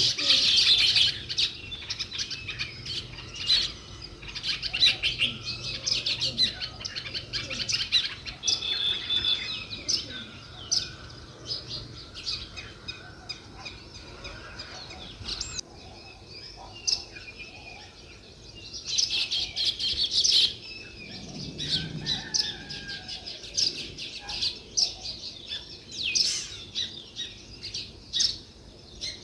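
A flock of small songbirds chirping, many short calls overlapping, busiest near the start and again about two-thirds of the way through.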